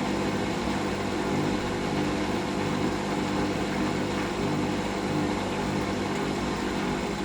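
Hoover washing machine motor running steadily with a constant hum. It is turning the drum while trying to balance the load before an intermediate spin.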